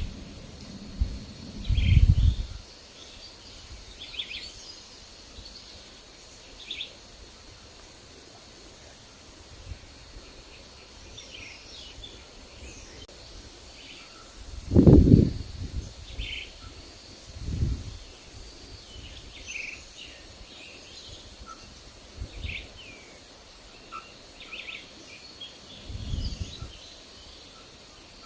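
Forest birds chirping in short, scattered calls throughout, with a faint steady high hum. Gusts of wind rumble on the microphone about two seconds in, loudest around the middle, and again near the end.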